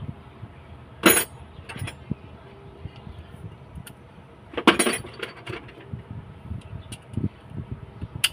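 Metal parts or tools clinking against each other, two sharp ringing clinks about three and a half seconds apart, with lighter taps and clicks between.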